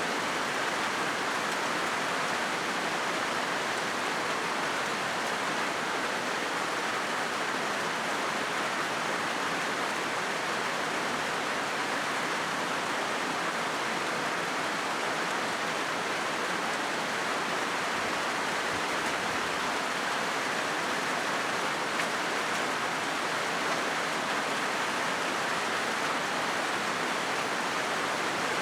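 Rain falling on a corrugated galvanized-iron (zinc) roof sheet: a steady, even hiss with no breaks.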